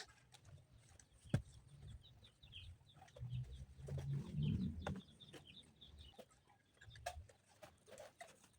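Faint bird calls, short chirps, with a few sharp knocks, the loudest about a second and a half in.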